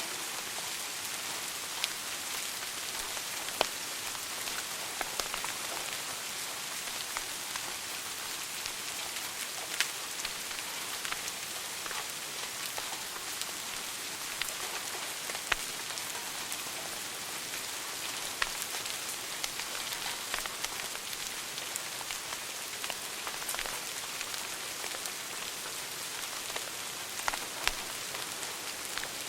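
Wood fire burning in a fireplace and crackling: a steady hiss dotted with irregular sharp pops and snaps, a few of them louder than the rest.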